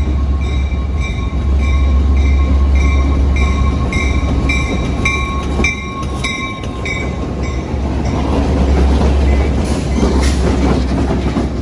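Southbound freight train led by a GP38-2 diesel locomotive passing, with a deep, steady engine rumble. A bell strikes about twice a second for the first seven seconds or so, then stops, leaving the rolling rumble of the railcars' wheels on the track.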